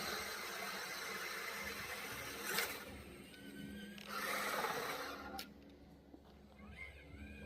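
Radio-controlled scale truck's small electric motor and gears whirring in short runs that start and stop several times, over a rushing hiss in the first few seconds.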